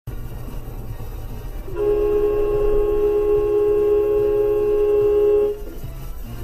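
A vehicle horn held in one steady blast of about four seconds, starting about two seconds in, over a low engine and road rumble.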